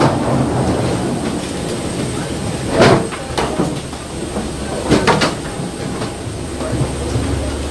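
Steady low rumble inside a Boeing 737 cabin, with a sharp knock about three seconds in and two more about five seconds in.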